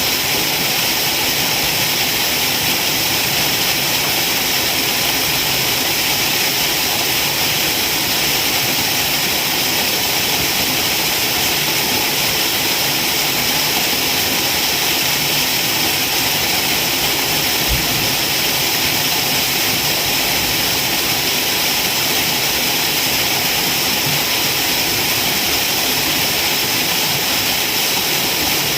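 A waterfall: a loud, steady rush of falling water, mostly hiss.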